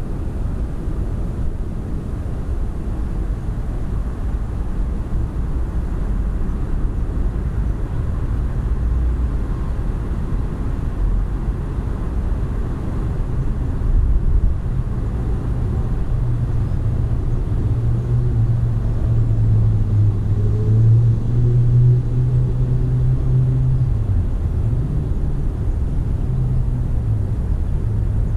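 Low, continuous engine rumble. A deeper hum grows louder from about halfway through and briefly drops in pitch near the end.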